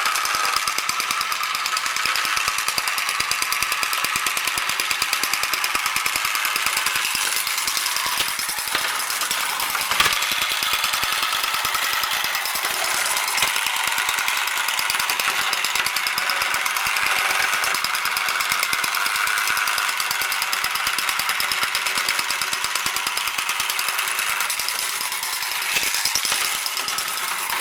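Battery-operated plastic toy train running, its small electric motor and gears making a fast, steady buzzing rattle, with a sharp click about ten seconds in.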